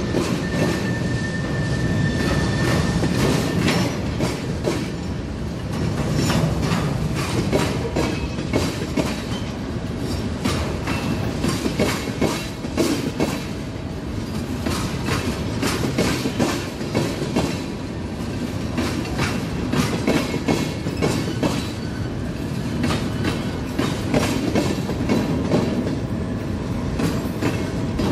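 Freight cars (tank cars and covered hoppers) rolling past, a steady rumble of wheels on the rails with frequent clicks and clanks.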